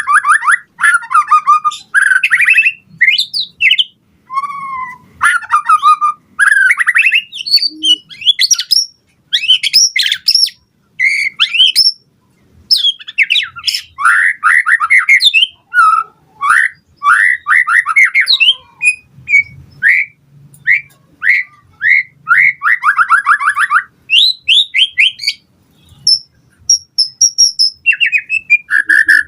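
White-rumped shama (murai batu) singing at full volume: a continuous run of rapid, varied phrases of trills, chirps and whistles, separated by brief pauses.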